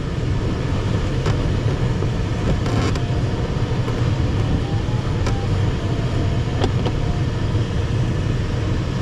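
Steady rush of airflow in the cockpit of an ASW 15 glider in flight. A few faint short tones step up and down in pitch around the middle, with a few light clicks.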